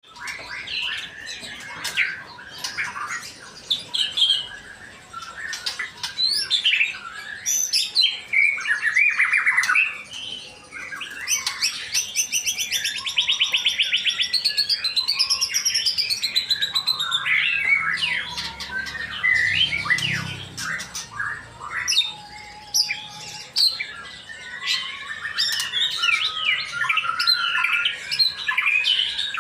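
Male white-rumped shama singing a long, varied song of whistles, chirps and squawky notes, with a fast trill about twelve to fifteen seconds in.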